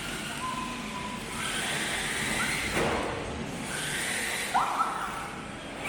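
Electric motor of a BSD Racing Viper RC car whirring in short rising spurts over a steady hiss.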